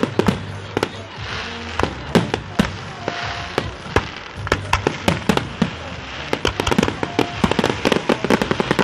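Fireworks display: aerial shells bursting in a rapid, irregular string of sharp bangs, several a second.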